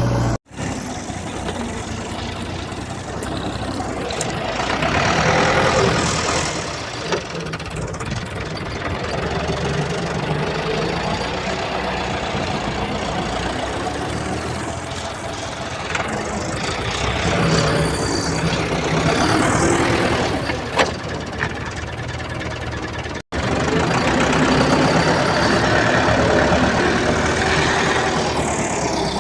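A motor running continuously, its level rising and falling, with abrupt cuts about half a second in and again near 23 seconds.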